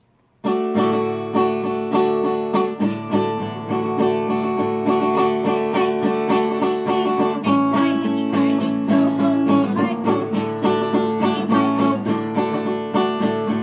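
Acoustic plucked-string music, guitar and banjo style, strummed and picked in a steady tune. It starts suddenly about half a second in and changes chord about halfway through.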